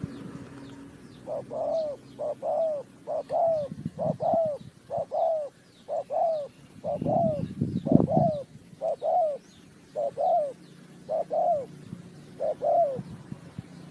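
Spotted dove cooing: a long string of short, soft coo notes, about one a second and some in quick pairs. A low rumble comes in briefly about halfway through.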